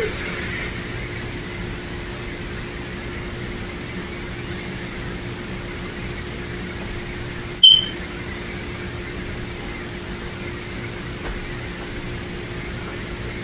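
Steady hiss with a faint low hum, interrupted once about halfway through by a brief sharp click with a short high chirp.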